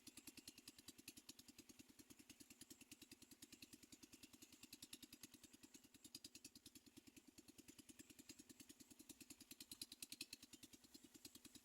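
Faint small engine idling, an even, rapid pulse that holds steady throughout.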